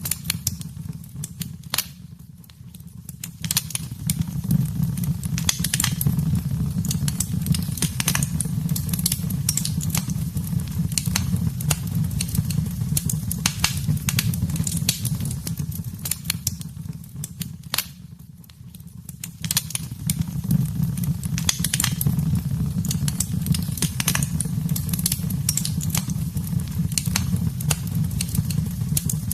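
Wood fire in a fireplace crackling, with frequent sharp pops and snaps over a steady low rumble of the flames. It eases off briefly twice.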